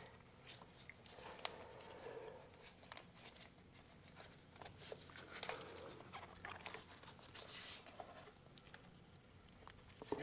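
Faint scattered clicks and light taps of a hand wrench working on a stuck fitting that will not turn.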